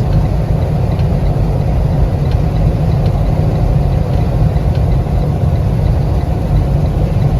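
Steady rumble of a semi truck's diesel engine and road noise heard from inside the cab while driving.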